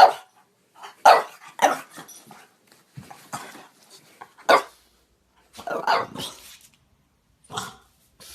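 French Bulldog barking in short, fairly high barks at uneven intervals, about seven in all. There is a longer, rougher run of barking a little past the middle.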